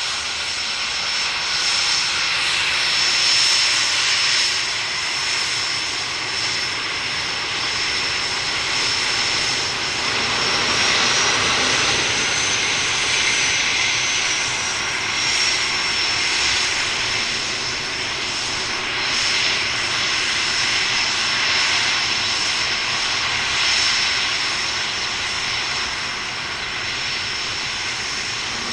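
Cessna 510 Citation Mustang's two Pratt & Whitney Canada PW615F turbofans at takeoff power: a loud jet rush with a steady high whine over it. The whine rises slightly in pitch around the middle and then settles back.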